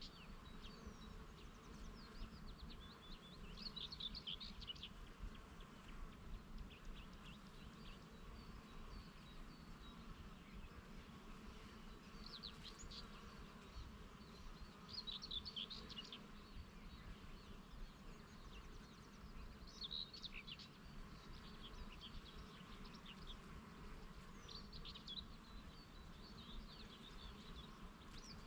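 Faint, steady buzzing of bees working the flowers, with a songbird singing short twittering phrases every few seconds over it.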